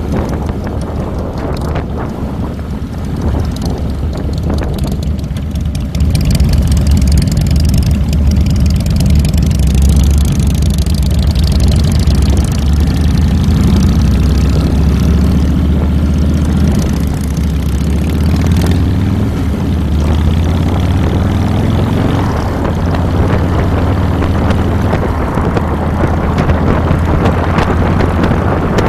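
2007 Harley-Davidson Fat Boy's Twin Cam 96 V-twin running under way, a deep low rumble with a hiss over it. It gets clearly louder about six seconds in and stays up.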